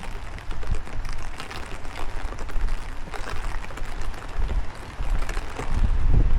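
Rain falling in a patter of small irregular drops, with strong wind buffeting the microphone in low rumbles that grow louder near the end.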